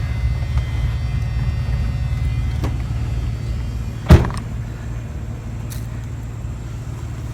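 A truck driving, heard from inside the cab: a steady low engine and road drone, with one sharp knock about four seconds in, after which the drone runs a little quieter.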